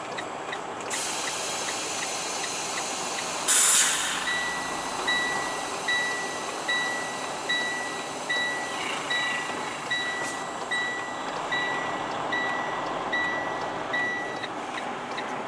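Semi truck's air brakes released with a short, loud hiss about four seconds in, over a steady idling diesel engine. A backup alarm beeps steadily throughout, louder after the hiss at about one beep a second.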